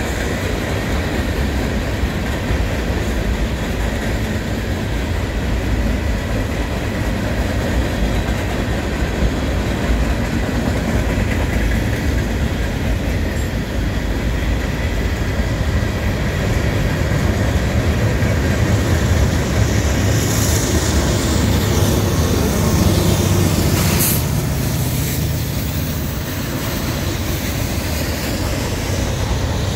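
Long freight train rolling past close by: steel wheels rumbling and clicking over the rail joints under loaded hoppers, tank cars and boxcars. The low rumble grows from about 20 to 26 seconds in, as the two mid-train diesel locomotives (a GE C40-9W and an SD70ACe-C) pass under power, with a sharp clank about 24 seconds in.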